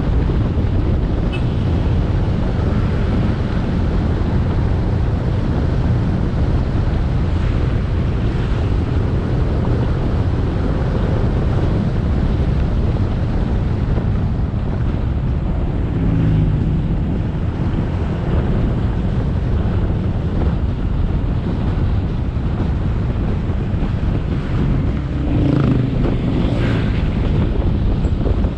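Motorcycle riding at speed: steady wind noise buffeting the action-camera microphone over the bike's engine and road noise. Brief louder swells of engine sound come about halfway through and again near the end.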